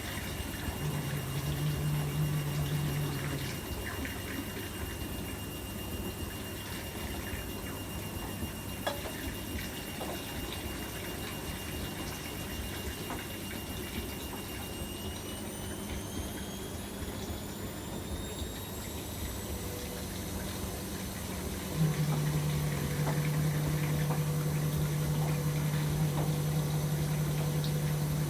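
AEG Öko-Lavamat washing machine running a 95°C boil wash: steady motor and water-sloshing noise, with a faint whine that rises in pitch midway. A pump hums briefly near the start and starts again about three-quarters of the way through, louder, and runs on steadily.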